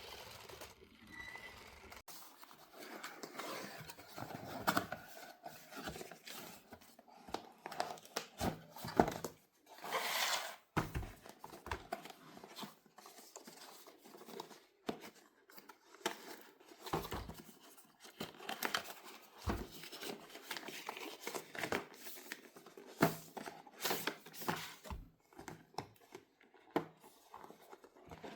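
Toy packaging being handled and opened: plastic and cardboard crinkling and tearing with many small clicks and knocks, and a longer tearing rush about ten seconds in.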